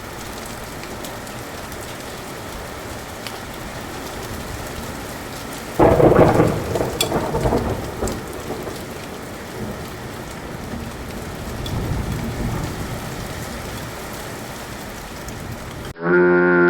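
Steady rain with a sudden loud crack of thunder about six seconds in that rumbles away over a couple of seconds, then a softer roll of thunder around twelve seconds. Music begins right at the end.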